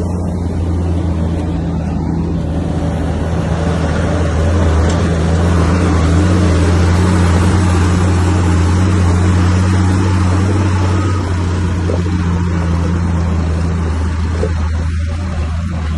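Heavy diesel engine of a bulldozer running steadily under load, its low hum swelling a little around the middle.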